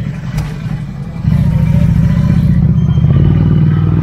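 Ducati Scrambler 800's air-cooled L-twin engine running under way, getting louder about a second in as the throttle opens and then holding steady.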